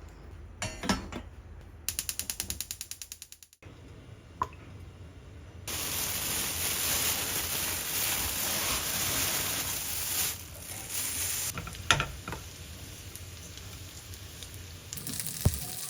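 A quick run of rapid clicks, about nine a second, lasting a second and a half, then from about six seconds in a steady sizzle of food frying in a pan, with a couple of knocks of utensils against the pan.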